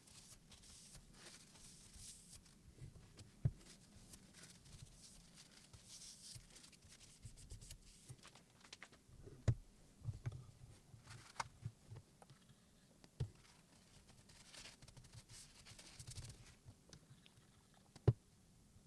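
Faint handling noise: scattered light clicks and knocks with brief soft scraping or rustling in between.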